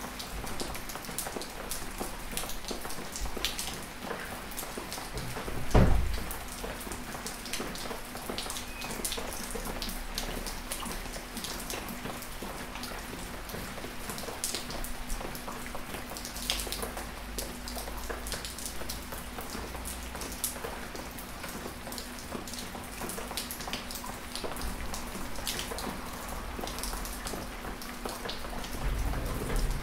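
Gentle rain falling on a backyard patio, with many separate drops heard as small ticks over a steady hiss. A single louder thump about six seconds in.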